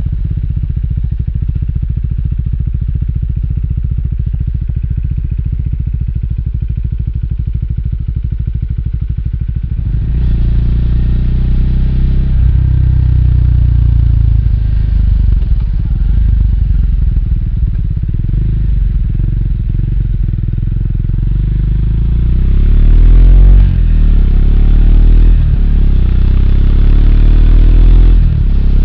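Triumph Speed 400's single-cylinder engine running steadily at low revs, then growing louder about ten seconds in. In the last few seconds the revs climb and drop sharply several times as the bike accelerates and shifts up through the gears.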